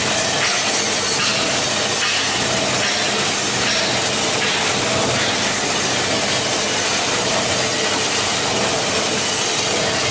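Plastic bottle recycling washing line machinery running: a steady, loud mechanical noise with a dense crackling rattle and hiss throughout.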